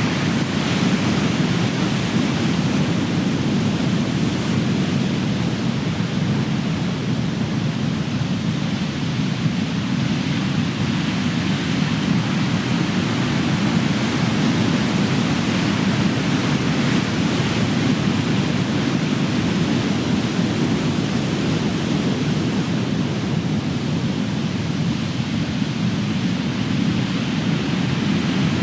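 Large ocean waves breaking in a steady, continuous deep surf wash that swells and eases slowly.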